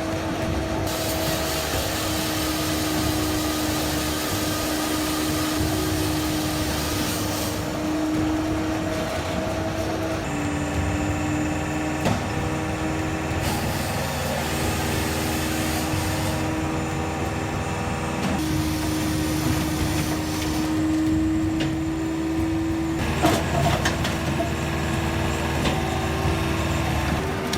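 Heavy engine-driven machinery running: a steady engine hum with mechanical clatter and noise, its character changing abruptly several times.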